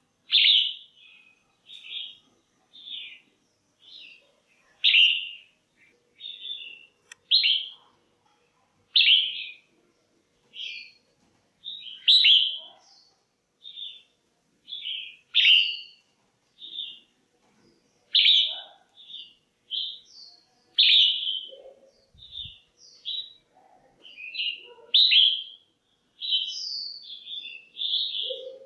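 Red-whiskered bulbul calling: short chirped notes repeated about once a second, some much louder than others. These are female calls, used to excite a male bulbul or to pair birds.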